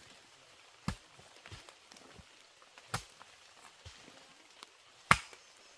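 Sharp knocks, three loud strikes about two seconds apart with fainter taps between, the last strike the loudest.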